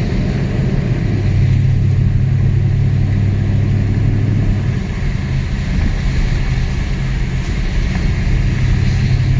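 Truck driving: a steady low engine hum with road and tyre noise, the hum easing about halfway through and rising again near the end.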